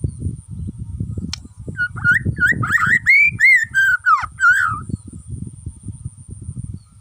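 Bornean white-rumped shama singing one phrase of rich, gliding whistles, starting about two seconds in and lasting about three seconds. A low irregular rumble runs underneath throughout.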